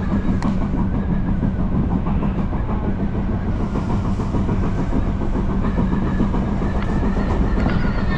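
Odakyu Line electric commuter train running at speed, heard from inside the car: a steady rumble of wheels on rails with a faint thin whine that rises in pitch near the end.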